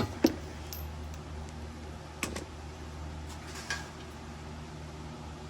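Steady low room hum with a few light clicks and knocks.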